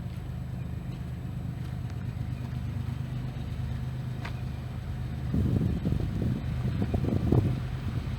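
An engine runs steadily with a low hum. From about five seconds in, louder, uneven rumbling joins it.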